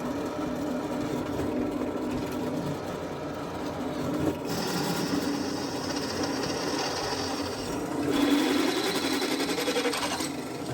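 A power tool running steadily under load, with a constant low hum; its higher pitch shifts about halfway through and again near the end.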